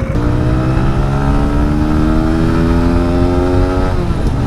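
A small motorcycle or scooter engine accelerating, its pitch climbing steadily for about four seconds before dropping off, over a steady low wind rumble.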